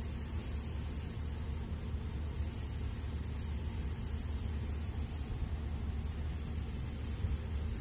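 Crickets trilling in one unbroken high note, over a steady low rumble.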